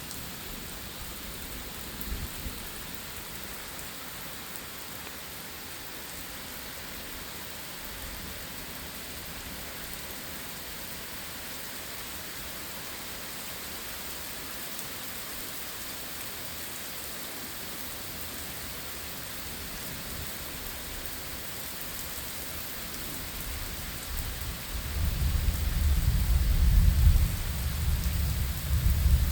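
Steady rain falling in a thunderstorm, with a brief low thump about two seconds in. Near the end a long, loud, low rumble of thunder builds and rolls on.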